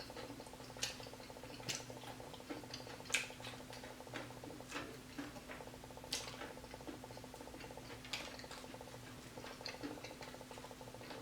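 Person chewing fried fish: faint, irregular mouth clicks and crunches every second or so, over a steady low hum.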